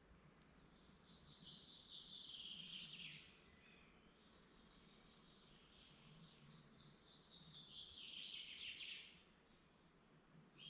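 A woodland songbird sings two similar phrases a few seconds apart, each a couple of seconds of rapid notes that drop in pitch toward the end, over a faint steady background hiss.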